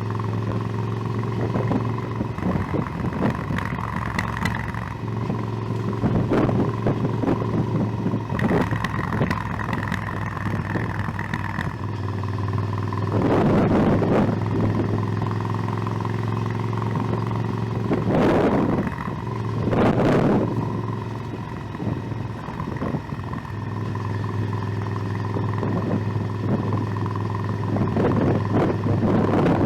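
Motorcycle engine running at a steady cruise, heard from the rider's position, with several short rushes of noise over it.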